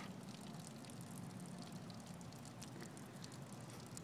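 Water draining out of a waterfall bong, a faint steady trickle with scattered small drips.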